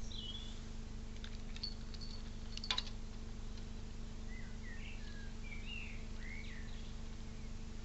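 Wild birds chirping in short curving calls, one near the start and a cluster from about four to six seconds in, over a steady low electrical hum. A sharp click about two and a half seconds in.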